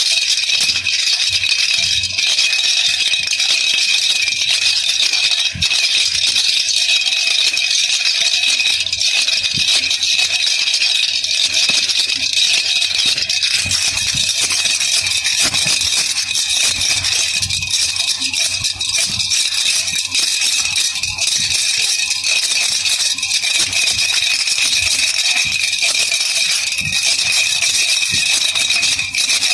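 Baby rattle (jhunjhuna) shaken continuously, a steady, unbroken rattling with no pauses.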